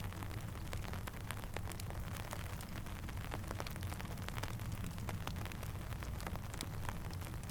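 Steady rainfall mixed with the frequent small pops and crackles of a campfire, over a low steady rumble.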